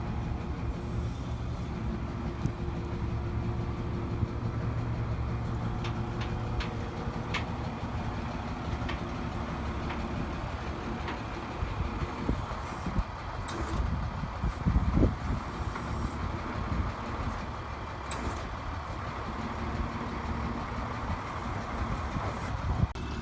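A truck's engine running steadily, with a few light knocks and one louder low thump about fifteen seconds in.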